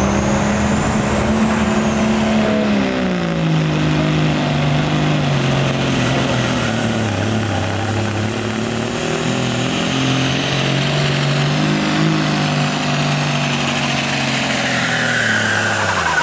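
Diesel pickup truck engine running at full throttle while pulling a weighted sled, its pitch falling gradually over the run as the load bogs it down. The level drops off near the end.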